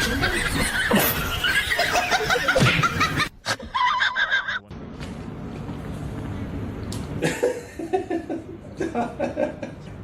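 People laughing and snickering loudly for about three seconds, then an abrupt cut to quieter clips with a short pitched sound and scattered softer voices.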